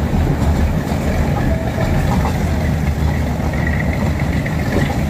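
Meter-gauge passenger train in motion, heard from on board: a steady low rumble of the running train.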